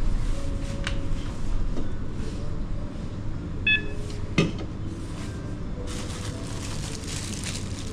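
A self-checkout machine gives one short beep about halfway through, with a sharp click just after, over a steady low hum and small handling knocks. A hiss grows louder near the end.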